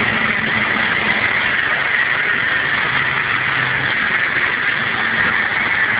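De-restricted ride-on lawn tractor driven at top speed: its small engine runs steadily under a loud, even rushing noise.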